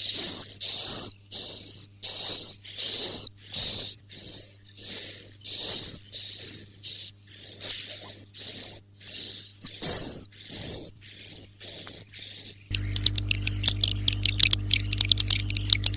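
Swiftlet roosting call ('suara inap'), the kind of recording played to lure swiftlets into nest houses. A high, buzzy chirp repeats about twice a second. About three-quarters of the way through it switches abruptly to rapid twittering chirps over a low hum.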